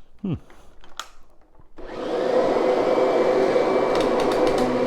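Kirby direct-air upright vacuum switched on about two seconds in, its motor spinning up quickly and then running steadily with a hum and a thin high whine. A few faint clicks of handling come before it.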